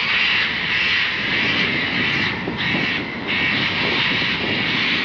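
A flock of cockatoos screeching: loud, harsh, rasping calls following one another continuously, about two a second.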